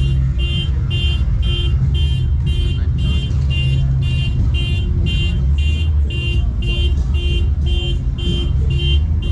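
Car alarm sounding: a rapid, even train of short high beeps, about two and a half a second, over a steady low rumble.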